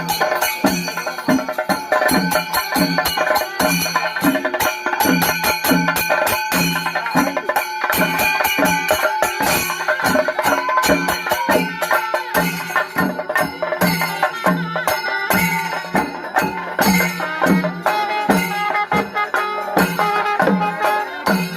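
Traditional folk music with percussion: a steady beat of low drum strokes under fast rattling, clicking percussion and a melody line.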